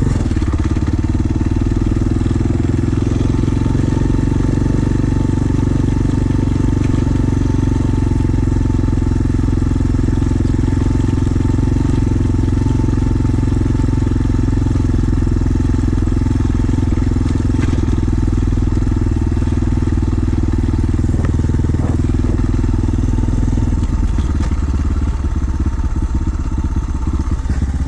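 Pit bike engine running steadily at a constant speed; about 24 seconds in it drops to a lower, rougher chugging as the bike slows.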